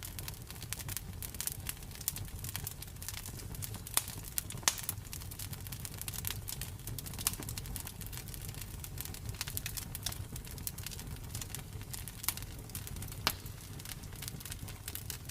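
Campfire crackling: irregular dry snaps and pops of burning wood, a few louder pops standing out, over a soft steady low rumble of the flames.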